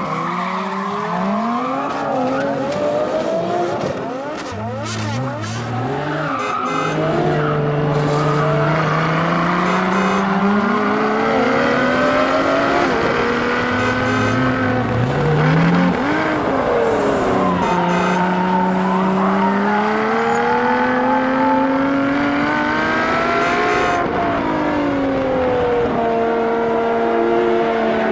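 Race car engine sound effects revving over and over, their pitch sweeping up and down. A few sharp clicks come about four to seven seconds in.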